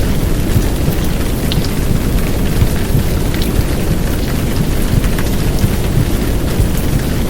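Heavy downpour rain: a steady dense hiss with scattered drops ticking, over a deep low rumble of womb-sound white noise.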